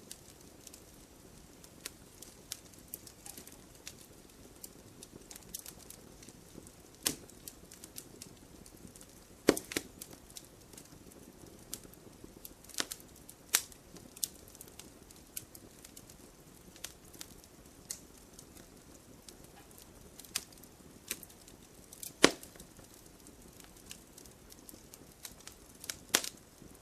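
Wood fire crackling in a fireplace: irregular sharp pops and snaps of burning wood over a soft steady hiss, with a few louder pops, one about a third of the way in, one about halfway and one about four fifths of the way through.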